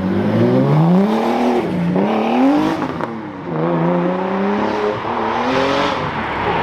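Car engine accelerating hard away. Its pitch climbs and drops back several times as it changes up through the gears.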